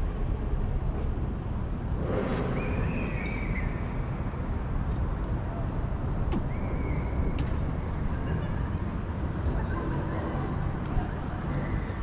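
A small bird chirping in short bursts of three or four quick, high, falling notes, repeated every two to three seconds over a steady low rumble of city background noise.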